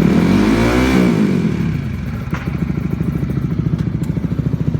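Single-cylinder sport motorcycle running through an aftermarket stainless Akrapovič exhaust: one throttle blip rises and falls in the first two seconds, then the engine settles into a steady, pulsing idle.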